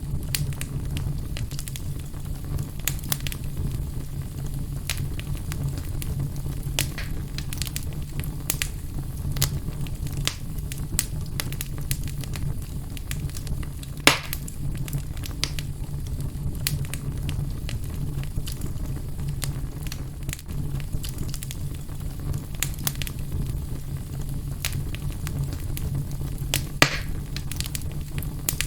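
Fire burning in a fireplace: a steady low rumble of flames with scattered crackles and pops, and two louder pops, one about halfway through and one near the end.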